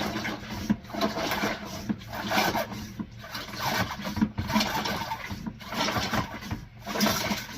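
Small hand-operated transfer pump worked in steady strokes about once every second or so, drawing bilge water through its hose. Each stroke is a rush of noise with a short break between strokes.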